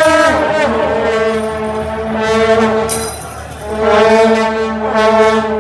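Loud horns sounding long held notes that step between a few pitches, sometimes two pitches at once, with a short break after about three seconds.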